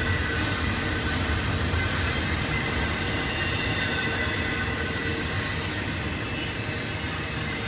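Double-stack intermodal freight cars rolling past on the main line: a steady rumble of steel wheels on rail, with a faint high-pitched squeal from the wheels over it.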